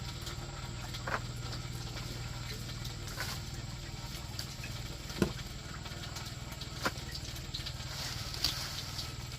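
Irregular patter of drips and small taps, with a sharper tap about five seconds in, over a steady low hum.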